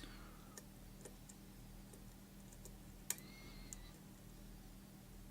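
Faint scattered clicks and ticks of a lock pick working the pins inside a pin-tumbler lock, with one sharper click about three seconds in.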